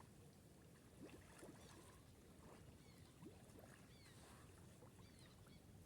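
Near silence: faint water movement around swimmers in a lake, with a few soft scattered splashes.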